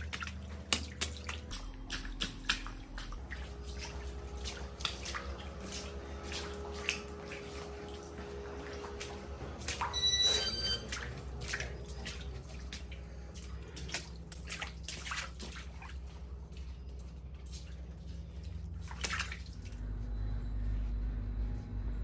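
Water dripping and splashing in a flooded room, many irregular drips over a low steady hum, with a brief ringing tone about halfway through.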